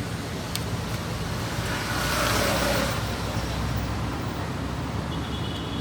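Street traffic noise, a steady low rumble, with a vehicle passing and swelling louder about two seconds in.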